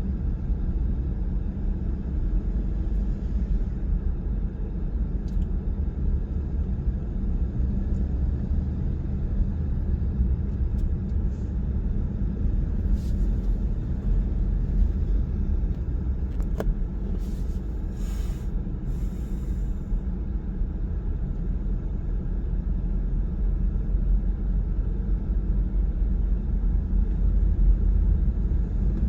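Car driving at a steady speed: a steady low rumble of tyre, road and engine noise, with a few faint brief hisses and clicks around the middle.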